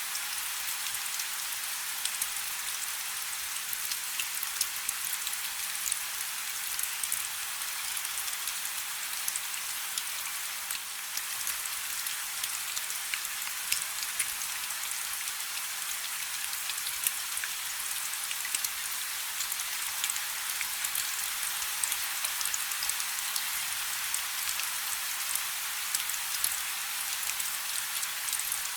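Rain falling steadily on a river: an even hiss with many small, sharp drop ticks scattered through it.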